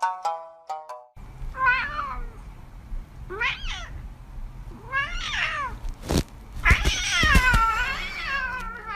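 A domestic cat meowing four times, the last meow long and drawn out. A few plucked musical notes end just before the first meow, and a sharp click sounds shortly before the last one.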